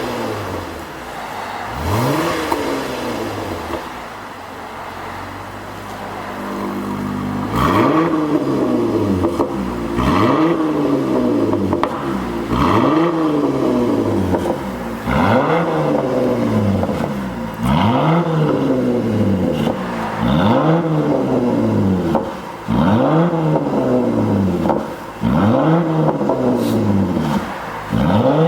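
Jeep Grand Cherokee L engine breathing through an aftermarket dual valved-muffler exhaust, revved again and again: about nine blips, one every two and a half seconds, each rising quickly in pitch and falling back.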